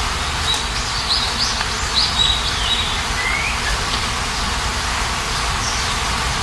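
Steady rain hiss with small birds chirping over it: a cluster of short, high chirps in the first half and a single rising call about three seconds in.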